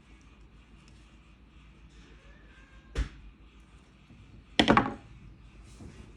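Two hard knocks: a single knock about halfway through, then a louder short clatter of several quick knocks about a second and a half later.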